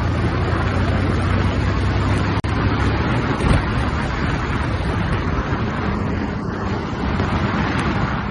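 Royal Enfield Classic 350's single-cylinder engine running steadily on the move, under heavy wind rush on the microphone. The sound cuts out for an instant about two and a half seconds in.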